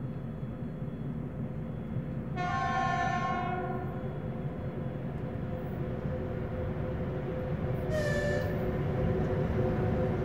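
Train running with a steady rumble, its horn sounding for about a second roughly two seconds in and briefly again near eight seconds.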